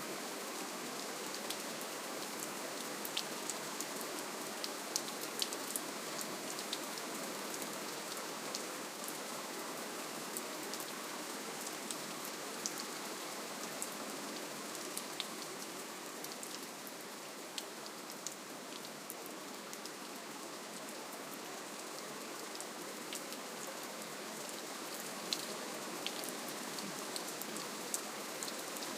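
Steady, gentle rainfall: an even hiss of rain with many separate drops ticking sharply on a surface, easing very slightly in the middle.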